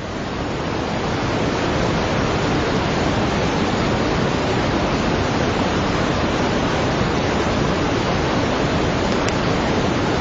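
Rain falling, a steady even hiss that swells up over about the first second and then holds.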